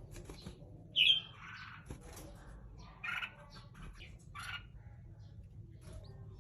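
Red-whiskered bulbul giving short calls: a loud one about a second in that drops in pitch, a second about two seconds later, and a fainter one after that.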